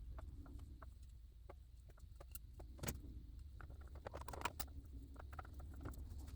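Faint scattered clicks and rustling of hands handling the doll and its hair, with a sharper click about three seconds in and a burst of rustling around four and a half seconds, over a low steady hum.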